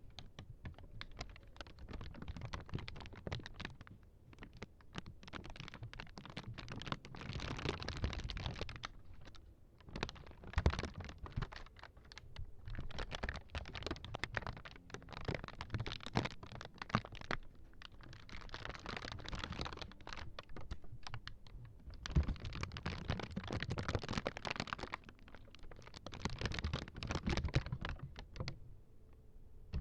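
Close-miked ASMR prop sounds: rapid, dense tapping and scratching in stretches of a few seconds with short pauses between.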